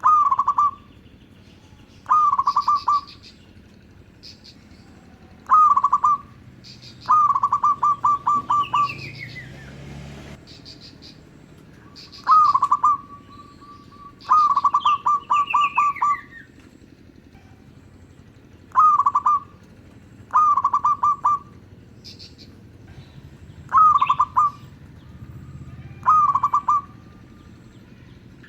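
Zebra dove (perkutut) cooing: about ten phrases, each an opening note followed by a quick stuttering run of repeated coos, every two to three seconds. Other small birds chirp faintly in the background, with two falling whistles.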